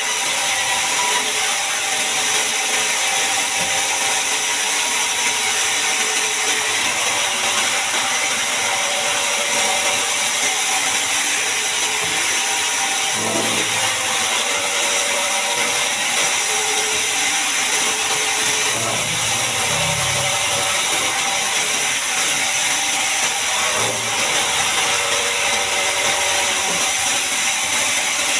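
Band sawmill running steadily, its blade sawing through a large mahogany log, with a few faint low thuds.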